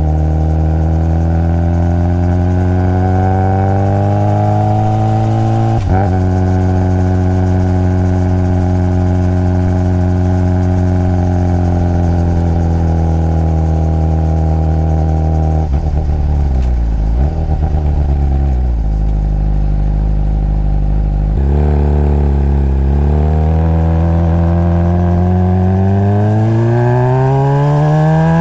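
Honda CBR600RR inline-four motorcycle engine under way: revs climb, drop sharply at a gear change about six seconds in, then hold steady while cruising. Past the middle the engine winds down through downshifts to a low, steady idle note for a few seconds, then pulls away with revs rising again, one more shift along the way.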